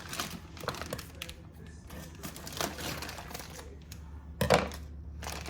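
Crinkling and rustling as whole raw chickens are handled in their wrapping, with one louder knock about four and a half seconds in.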